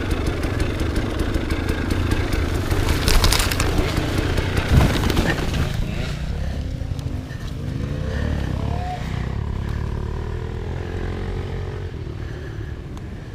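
Enduro motorcycle engine running, loud and busy with clattering and scraping over roughly the first six seconds, then quieter for the rest.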